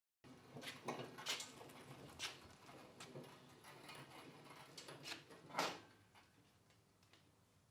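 A faint series of irregular clicks and knocks, the loudest about five and a half seconds in, dying away near the end.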